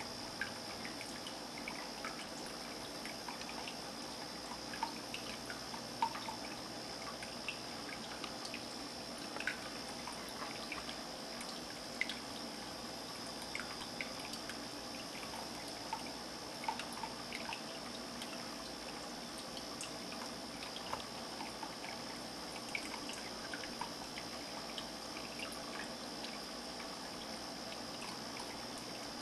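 Water trickling steadily in a handmade stoneware cat fountain, with irregular drips plinking into the bowl. A faint steady high tone runs underneath.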